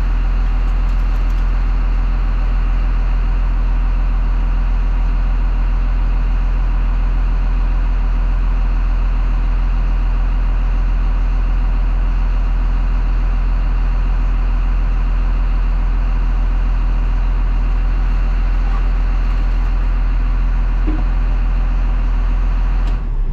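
International TerraStar salt truck's diesel engine running with a steady low drone. It cuts off abruptly near the end.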